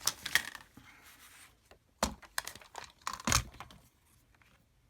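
Craft paper being handled, rustling and crinkling in two bouts: one at the start, another about two seconds in.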